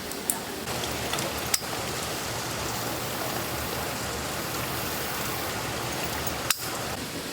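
Steady water noise, a continuous even hiss, with a few sharp clicks: one near the start, one about a second and a half in, and one about six and a half seconds in.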